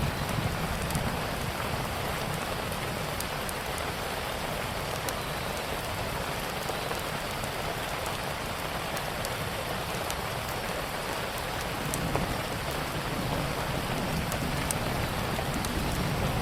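Steady rain falling, over a low rumble, with scattered sharp crackles and pops from a wood fire.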